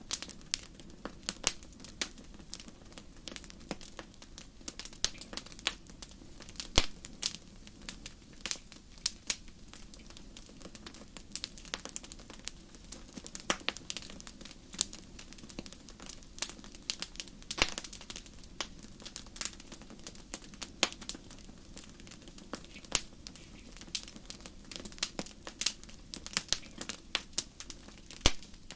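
Burning wood in a fireplace crackling, with frequent irregular sharp pops and snaps over a low steady rumble of the flames.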